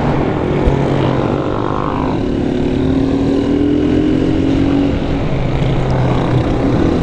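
Motorcycle engine running steadily under way, its pitch drifting a little as the revs change through the middle.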